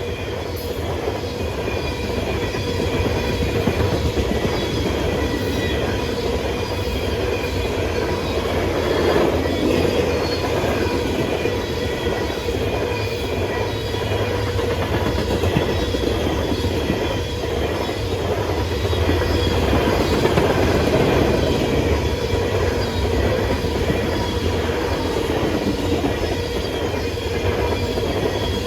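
Freight train rolling past, its steel wheels clacking over the rail joints, with squeal from the wheels on the rail.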